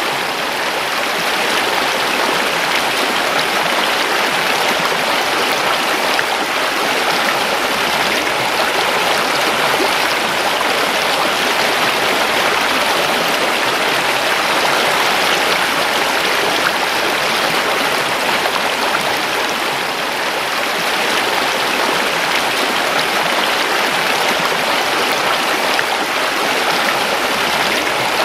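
A river's water running steadily over rocks, an even rushing babble.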